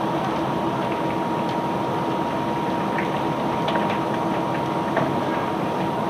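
Steady rushing noise of barge-unloading machinery running without a break, with a constant whine through it and a few faint clicks.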